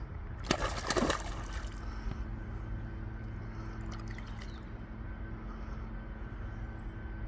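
Water splashing as a small hooked pike thrashes at the surface while being played in: a loud splash about half a second in and a smaller one about four seconds in, over a steady low hum.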